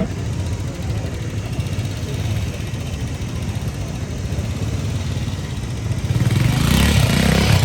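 Motorcycle engine running steadily, growing louder about six seconds in.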